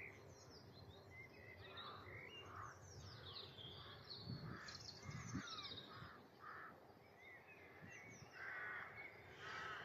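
Faint woodland birdsong from several small songbirds: quick, high, falling phrases, with lower, harsher calls repeating at intervals.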